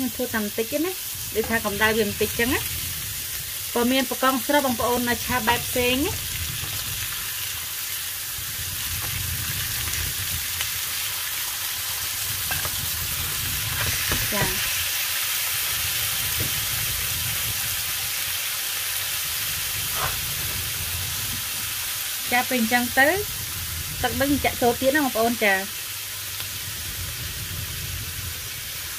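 Lobsters frying in hot olive oil with chopped parsley and garlic in a pan: a steady sizzle. A voice speaks briefly twice near the start and again near the end.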